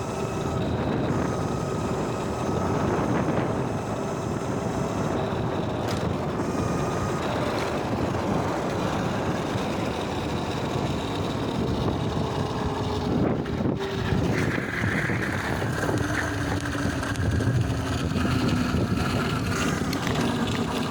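Electric bike being ridden: a steady rushing noise of wind and road, with a faint motor whine that slowly drifts in pitch.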